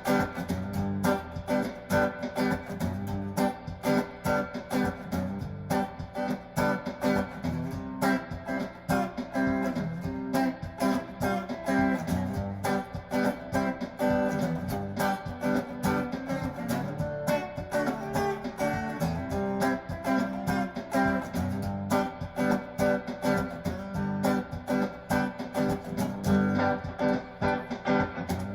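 Donner DTC 100 Telecaster-style electric guitar played clean through a tube amp on the middle pickup position (neck and bridge single coils together), over a looped backing drum beat.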